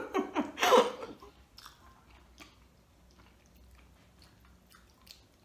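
A short burst of laughter in the first second, then close-up chewing of pizza: faint mouth clicks and small crunches.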